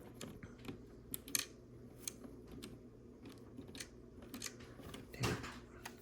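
LEGO pieces being handled and fitted together: scattered small plastic clicks and rattles, with one louder, duller knock about five seconds in.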